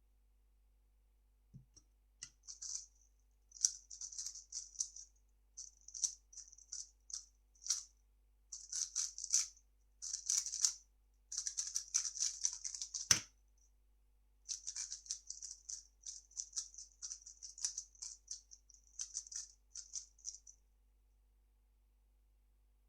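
3x3 speed cube being turned fast: bursts of quick, light plastic clicking and clattering, broken by short pauses. About thirteen seconds in there is one sharp thump, after which the turning resumes.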